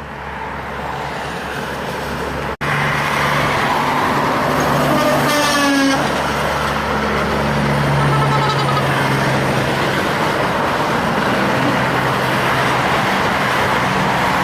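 Heavy trucks passing on a highway, a steady low engine drone and tyre noise that builds over the first couple of seconds. About five seconds in, a truck horn toots with a falling pitch, and a shorter high tone follows a few seconds later.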